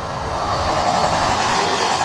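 Odakyu Electric Railway train approaching a level crossing, its running noise growing steadily louder.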